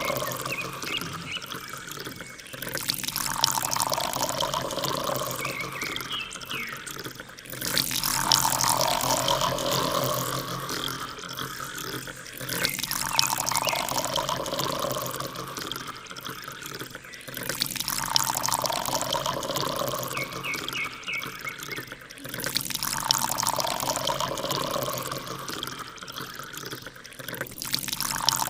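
A stream of water pouring and splashing from a mini water pump's outlet. The sound swells and cuts back in a cycle that repeats about every five seconds.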